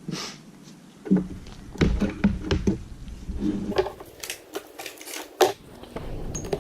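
Irregular clicks and taps of small tools and parts on a work surface while tiny screws are being removed, with the loudest sharp click about five and a half seconds in.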